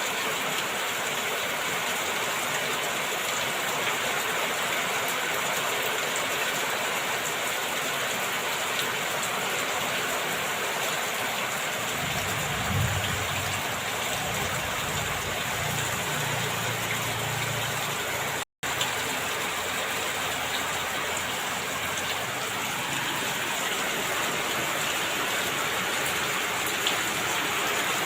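Heavy rain falling steadily, a dense even hiss of rain on surfaces. A low rumble rises under it for several seconds midway, and the sound cuts out for an instant shortly after.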